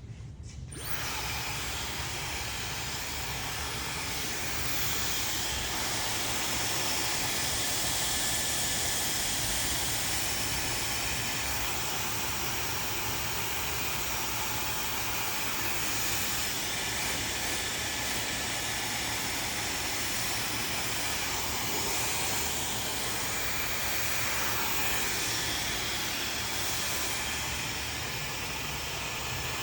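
Handheld hair dryer switched on about a second in and blowing steadily, a constant rush of air.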